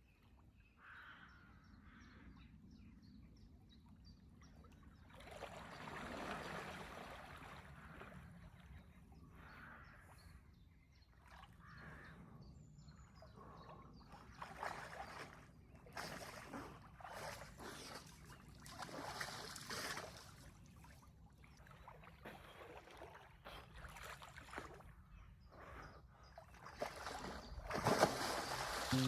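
Soft, irregular water splashes and swishes around a canoe on a flowing river, with trickling between them, loudest near the end.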